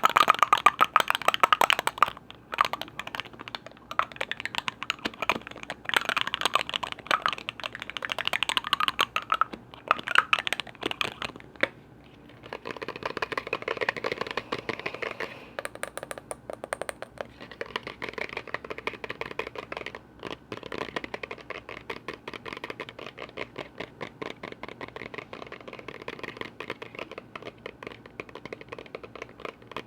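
Rapid, continuous tapping on lids and containers, a dense run of small clicks. There is a brief lull about twelve seconds in, after which the tapping sounds lower and fuller.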